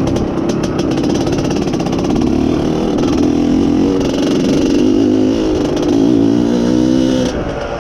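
IZh Planeta Sport's single-cylinder two-stroke engine running under load as the motorcycle is ridden, its note wavering up and down with the throttle. The engine note drops off near the end.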